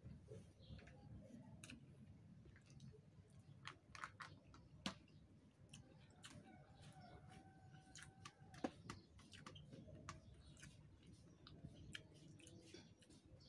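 Faint chewing and wet mouth clicks of a person eating rice and raw greens by hand, with a couple of sharper clicks.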